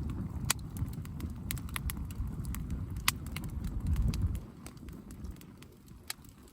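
Wood campfire crackling, with frequent sharp pops and snaps over a low rumble that eases off about four seconds in.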